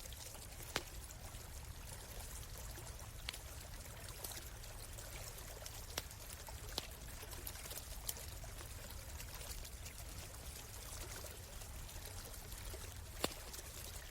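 Steady rush of a flowing stream, with a few sharp pops from a crackling wood campfire. The loudest pops come about a second in and near the end.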